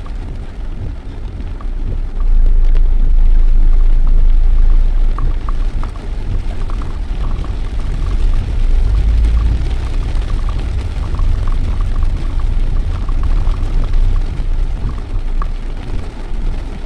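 Steady low rumble of a vehicle on the move in the rain, with light pattering of rain over it; the rumble grows louder about two seconds in.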